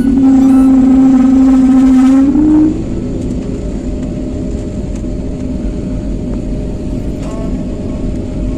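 Jet airliner engine noise heard from inside the passenger cabin. A loud, steady, pitched drone for the first couple of seconds rises slightly and cuts off, leaving a steady cabin hum.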